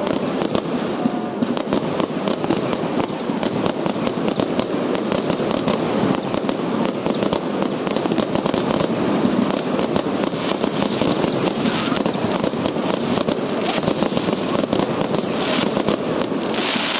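Fireworks going off continuously: a dense, unbroken run of rapid cracks and pops.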